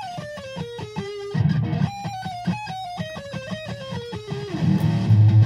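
Electric guitar tuned to Drop C# playing a rock riff: two runs of quickly picked single notes stepping down in pitch, then heavy low notes on the bottom strings near the end.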